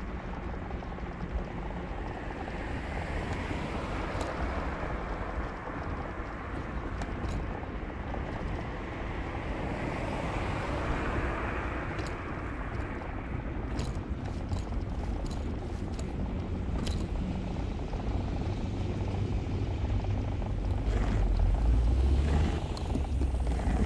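Street traffic noise with a steady low rumble. About ten seconds in, a vehicle swells past and fades, and near the end a heavier low rumble grows louder.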